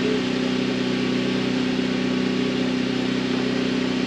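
A machine running steadily: a constant low hum with a faint hiss, even throughout.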